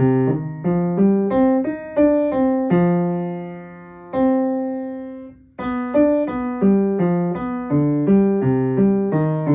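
Piano playing a left-hand part alone: a run of low single notes stepping up and down evenly on the beat. The first phrase ends on a held note that fades away, and a second phrase begins about five and a half seconds in.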